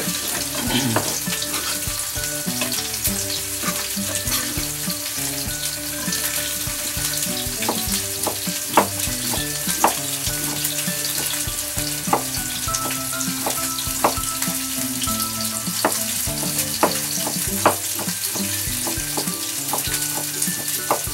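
Fish frying skin-side down in a non-stick pan, sizzling steadily. Over it, a kitchen knife chops blanched broccoli on a plastic cutting board in irregular, sharp strikes.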